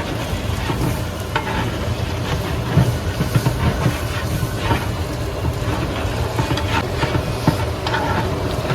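A large commercial pot of biryani masala and chicken frying and being stirred: sizzling, with irregular scrapes and knocks of a big ladle against the pot over a steady low rumble.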